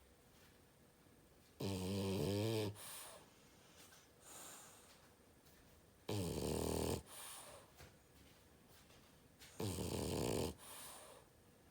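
French bulldog snoring in its sleep: three loud, rasping snores about four seconds apart, each about a second long, each followed by a fainter breath.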